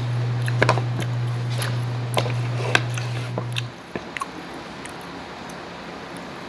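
Crisp, crunchy bites and chewing of unripe green mango slices, with irregular sharp crackles. A steady low hum under it stops a little past halfway through.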